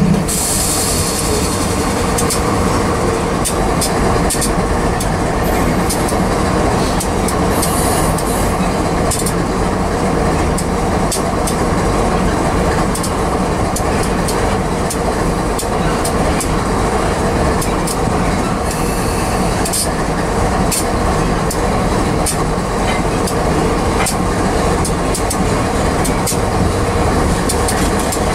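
Grain train's covered hopper cars rolling past: a steady rumble of steel wheels on rail, with frequent sharp clicks.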